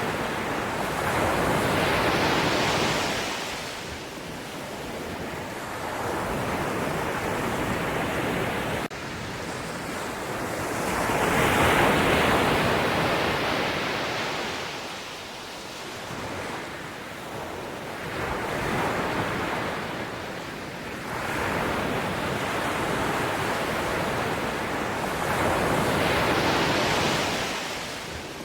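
Ocean waves breaking and washing ashore, the surf swelling and falling about five times, several seconds apart.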